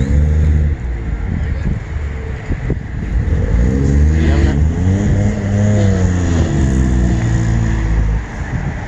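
Car engine running and being revved: its pitch rises about four seconds in, swells again a little later, and falls away near the end.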